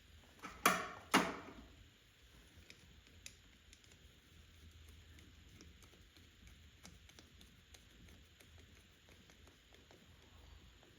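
Two sharp knocks of hard objects being handled or set down on a workbench, about half a second apart, followed by light scattered clicks.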